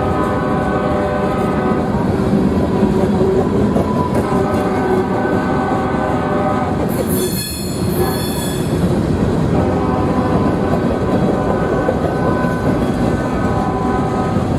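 A train rumbling past as a locomotive air horn sounds a chord in three long blasts, the last the longest. A brief high hiss comes about halfway through.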